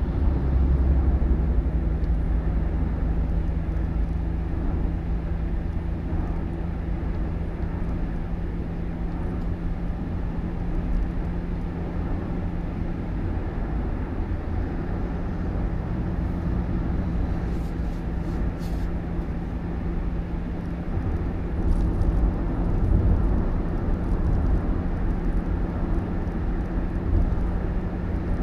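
A vehicle's engine and road noise: a steady low rumble with a constant engine hum, as on the move, with a few faint clicks in the middle.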